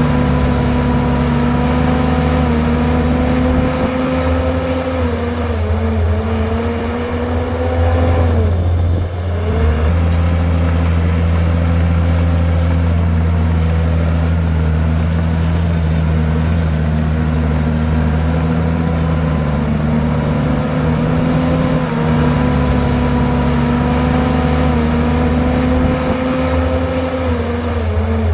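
Komatsu bulldozer's diesel engine running hard. Its steady note sags in pitch a few times, drops sharply about nine seconds in, then picks back up.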